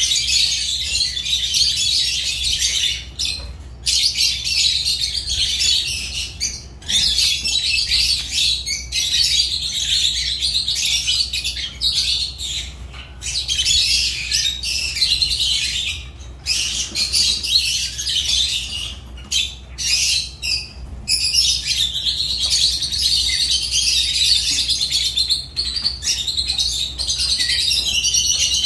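Lovebirds chattering: dense, high-pitched chirping that runs almost unbroken, with a few short gaps.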